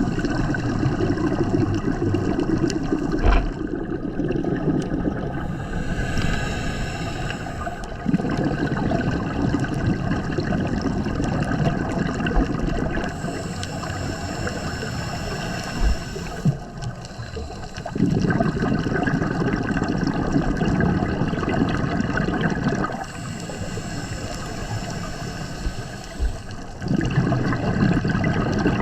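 Scuba diver breathing through a regulator underwater. Quieter inhales with a thin hissing whistle alternate with louder gurgling rushes of exhaled bubbles, in a slow, even cycle of about three breaths.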